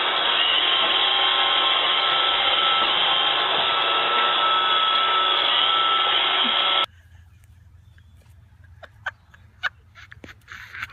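A small electric motor, such as a blower, running with a steady loud whir for about seven seconds, then cutting off suddenly. Faint clicks follow.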